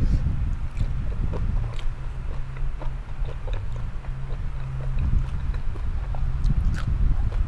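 Close-up chewing of som tam and raw vegetables, with scattered crisp crunches, over a steady low rumble and hum.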